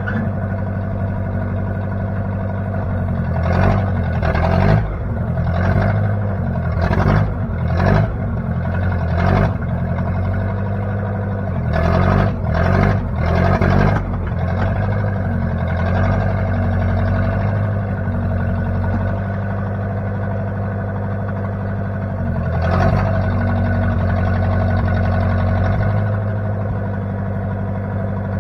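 The engine of a 1960 Case 540 backhoe running steadily. Several short, louder sounds break over it in the first half, then it settles to an even run.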